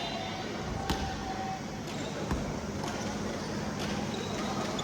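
A basketball bouncing a few scattered times on a gym floor, each bounce a short thud, over the steady background noise of a large hall.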